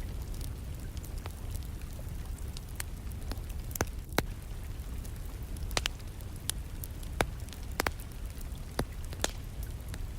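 Wood burning in a fireplace, crackling with irregular sharp pops, the strongest about four seconds in and about seven seconds in, over a steady low rumble and the soft hiss of rain.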